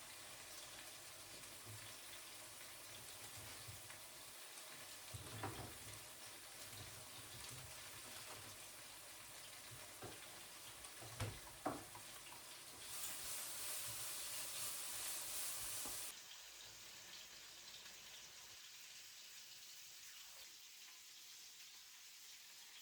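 Food sizzling faintly in a frying pan, with a few light clicks and knocks of a utensil. Past the middle there is a louder hiss for about three seconds.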